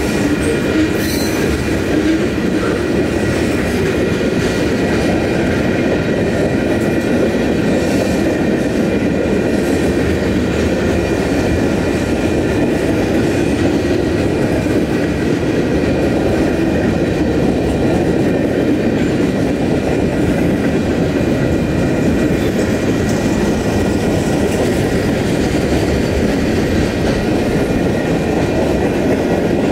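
Freight train cars rolling past at speed: a steady, loud rumble and rattle of steel wheels on the rails, with a thin steady high whine held over it throughout.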